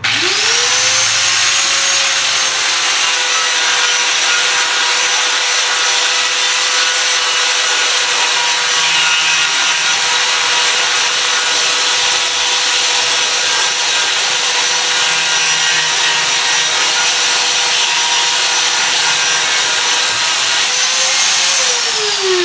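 Grinder spinning up and grinding the paint off a dented panel with a loud, steady whine, then winding down near the end.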